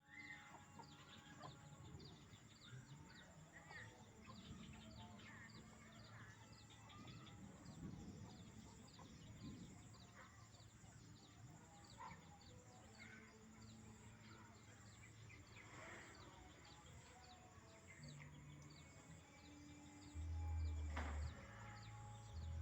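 Faint, busy chirping of young chicks and house sparrows: many short, high peeps and chirps with the odd longer call. About twenty seconds in, a low rumble comes in louder than the birds.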